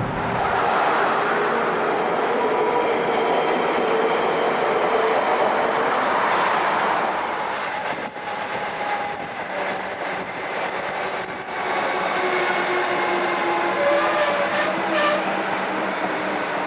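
Electric train running on the rails: a steady rush of wheel and rail noise with faint motor whines that shift a little in pitch. The noise dips briefly about eight seconds in.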